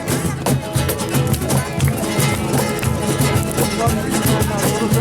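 Lively flamenco-style music with guitars strummed fast over a steady beat.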